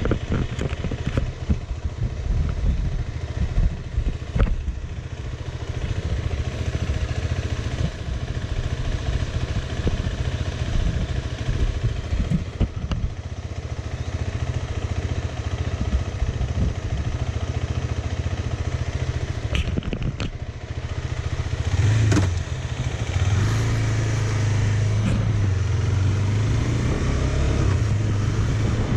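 Motorcycle engine running on the move, with occasional knocks and clatter. About two-thirds of the way in, the engine note settles into a steadier hum.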